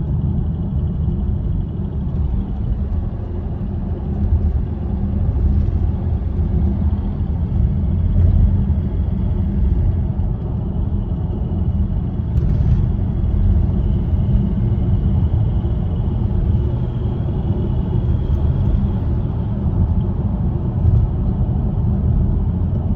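3.0 TDI V6 diesel engine (code CASA) running with a steady rumble; this is the engine that has the ticking noise.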